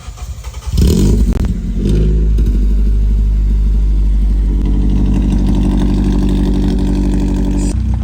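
A vehicle engine starts up about a second in and runs steadily, then cuts off shortly before the end.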